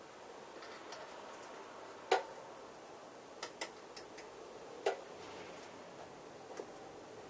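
Scattered, irregular light clicks and taps of tools and metal bike parts being handled, over a faint steady hiss; the sharpest click comes about two seconds in.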